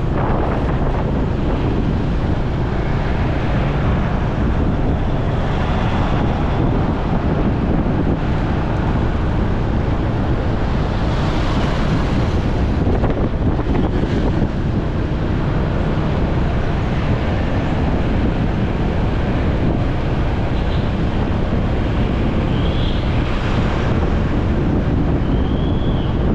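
Wind buffeting the microphone over the steady running of a motorcycle and road noise while riding in traffic. A few short high chirps come near the end.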